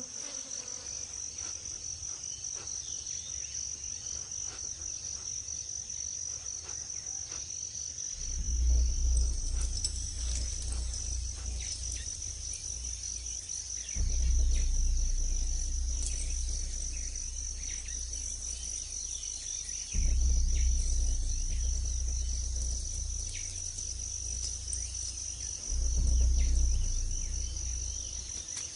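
Rainforest insect chorus with a steady, high-pitched buzzing drone. About a third of the way in, low rumbles begin to swell up and fade away, four times at roughly six-second intervals.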